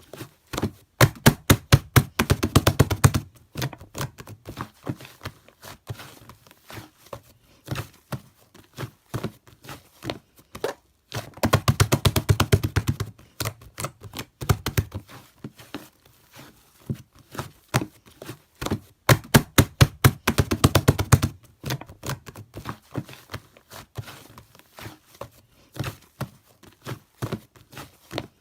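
Typing on a keyboard: runs of rapid key clicks, dense around 2, 12 and 20 seconds in, with slower scattered keystrokes between.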